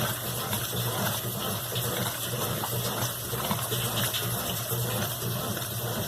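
Steady rush of water in a Brastemp BWQ24 washing machine over a constant low hum.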